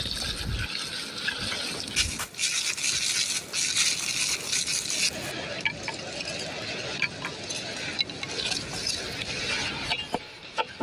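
Kitchen preparation sounds: steady brushing and scraping with scattered small clinks of utensils against glass or dishes.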